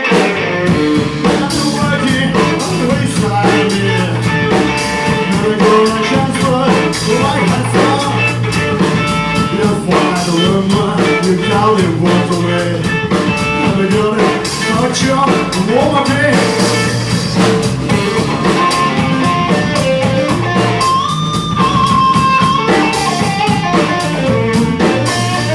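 Live rock-blues band playing an instrumental stretch with electric guitar, bass guitar and a drum kit keeping a steady beat.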